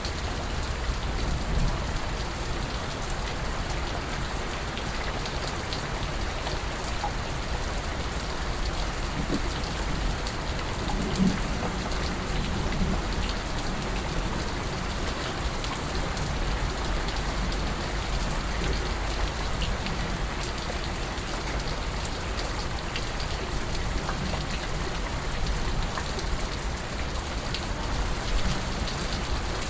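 Steady rain falling, with scattered drips and patters from the drops landing on a surface.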